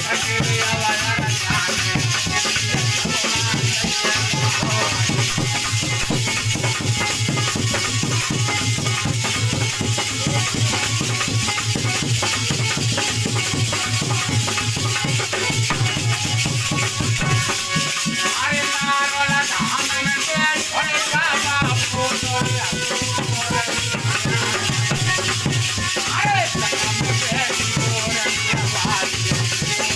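Alha folk music: a drum and shaker-like jingling percussion keep a steady beat, with a wavering melodic line over it.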